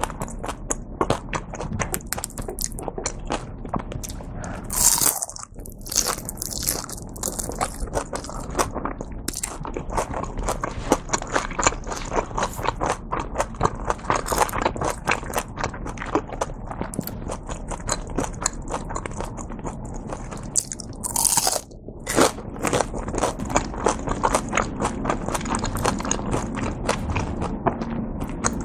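Close-miked chewing and biting of a deep-fried shrimp dumpling: the crisp fried wrapper crunches and crackles, with wet chewing in between. There are two louder crunchy bursts, about five seconds in and near twenty-one seconds.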